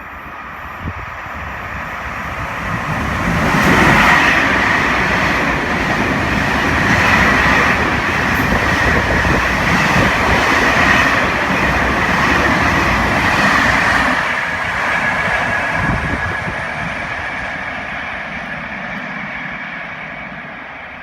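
A train passing by on the rails: its sound builds to a peak about four seconds in, stays loud for some ten seconds, then fades away.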